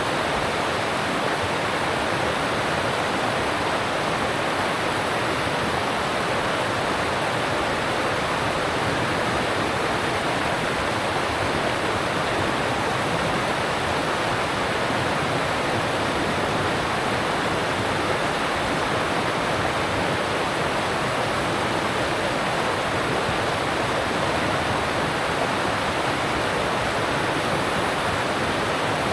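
Alpine mountain stream rushing over rocks: a steady, even rush of water.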